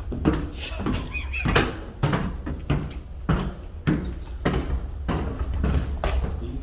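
Footsteps, about one and a half a second, over a steady low hum.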